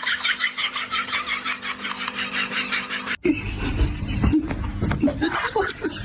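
Rapid, evenly pulsed laughter that cuts off suddenly about three seconds in, followed by voices over a noisy background.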